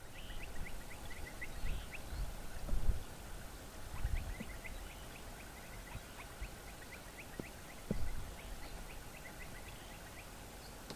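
A bird's rapid, high chirps, several a second, coming in bursts, over outdoor ambience broken by several low rumbling thumps that are the loudest sounds.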